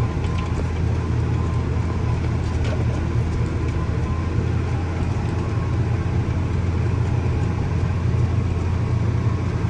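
Harvest machinery running steadily with a low, even engine drone.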